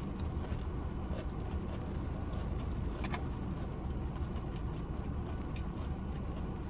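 Heavy rain pouring down as a steady noise, with a single short click about three seconds in.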